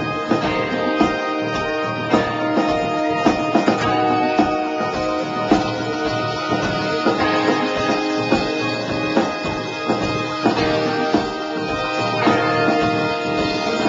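Live rock band playing an instrumental passage: held keyboard chords over a steady drum beat, with no singing.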